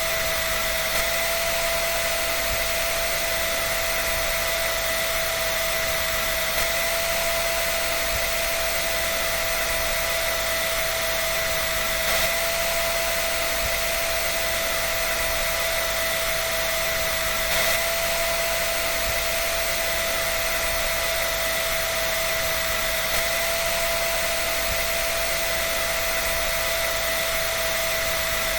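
A dryer running steadily: an even rushing of air with a constant motor whine, no rhythm and no change in pitch or level.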